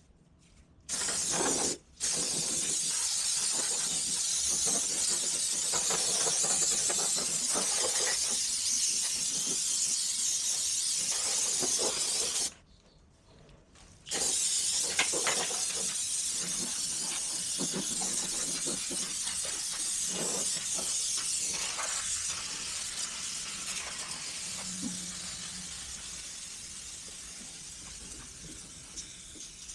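Aerosol can of brake cleaner spraying onto metal in long, steady hisses, with a short break about two seconds in and a longer one about twelve seconds in. The spray grows fainter over the last several seconds.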